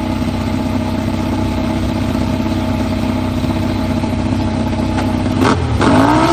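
A recorded motorcycle engine sound effect idling steadily, then revving with a rising pitch near the end.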